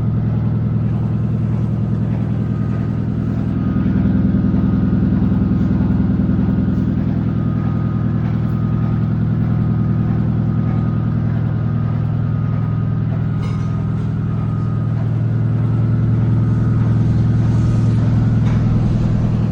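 Electrolux LEV17 17 kg washing machine running, its motor giving a steady low hum with a fast fine pulsing that swells slightly now and then.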